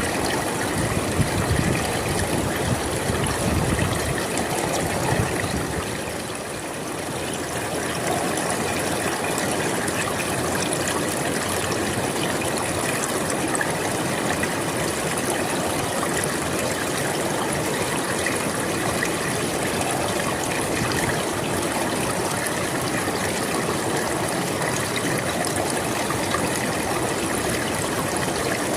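Flowing river water, a steady rushing and trickling that dips briefly in loudness about six seconds in.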